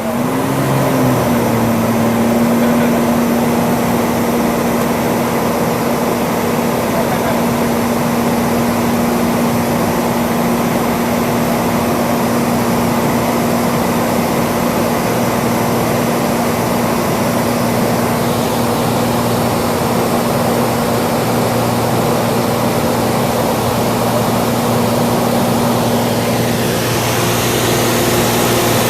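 Cessna 182's piston engine and propeller droning steadily in flight, with a brief wobble in pitch right at the start and a slight change in tone near the end.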